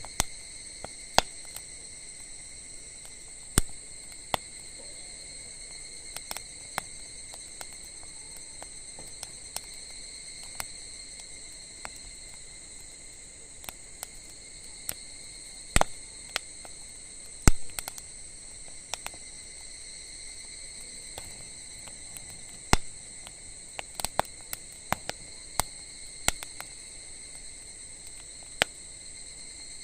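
Wood fire crackling, with irregular sharp pops and snaps, a few of them loud, over a steady high-pitched chorus of insects.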